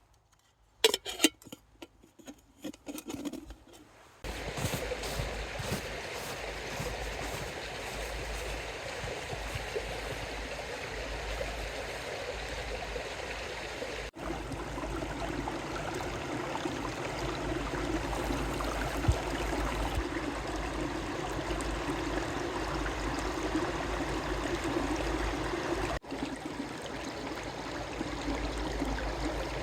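A mountain stream running steadily, starting about four seconds in. Before it come a few sharp clicks, the loudest sounds here.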